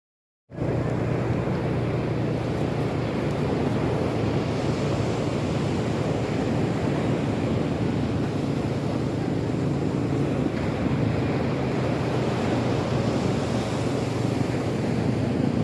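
Sea waves washing against the shore, mixed with wind rumbling on the microphone; a steady rushing that cuts in abruptly about half a second in.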